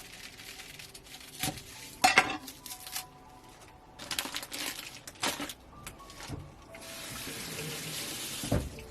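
Kitchen prep sounds: dishes and utensils clinking and knocking several times, the sharpest about two seconds in, with water running from a tap for a short stretch near the end.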